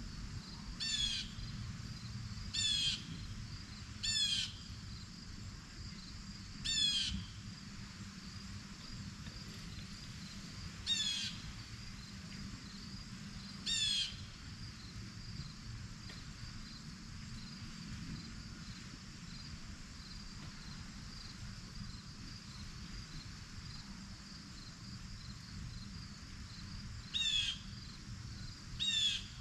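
A bird calling in short calls that slide downward in pitch, one every one to three seconds at first, then after a long pause twice more near the end. Under the calls runs a steady high-pitched hum of insects.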